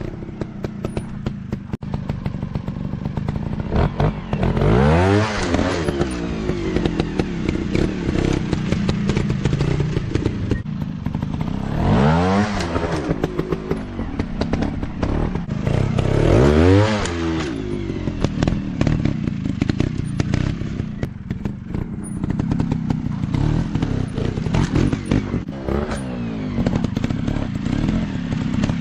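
Dirt bike engine running at low revs, revving up hard and falling back three times, with frequent sharp knocks and clatter throughout.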